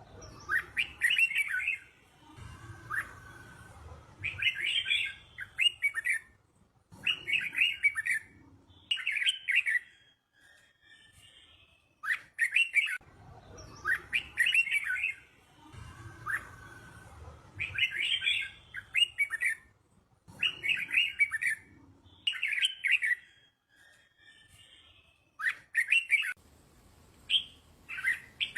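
Red-whiskered bulbul singing a teacher-bird song for young birds to learn, made of short, quick whistled phrases repeated every second or two with brief pauses between them.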